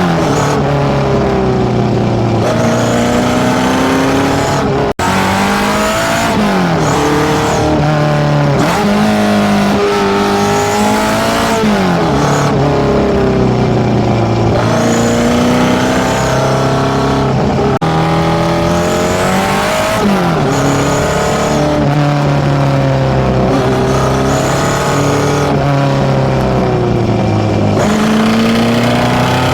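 Fully tuned Nissan A15 four-cylinder with FCR41 carburettors, big valves and a high-lift cam, breathing through a one-off 54 mm stainless exhaust, revved again and again: the pitch climbs and falls back every few seconds.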